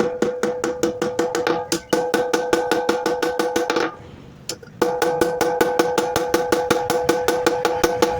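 Rapid hammer blows on steel over an anvil while forging a golok blade, about five or six ringing strikes a second. The hammering stops for about a second near the middle, then resumes at the same pace.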